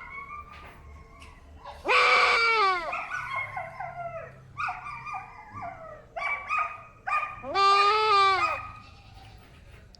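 Boer goat bleating in distress while it is being castrated with a clamp. There are two long, loud bleats, about two seconds in and again near eight seconds, with shorter broken cries between them.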